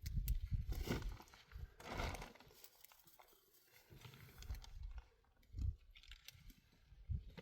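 Irregular crunching and rustling in several uneven bursts, with dull low thumps, loudest in the first two seconds.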